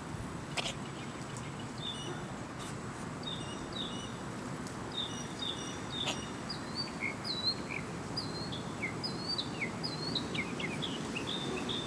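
Small birds chirping in short, repeated notes that grow busier in the second half, over steady background noise, with a few sharp clicks.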